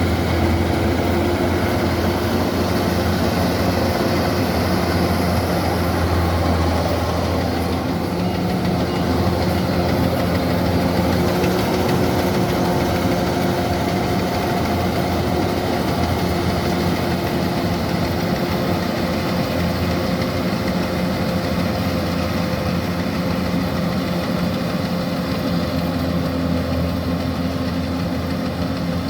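Kubota rice combine harvester's diesel engine and machinery running steadily with a deep drone, the pitch shifting slightly now and then.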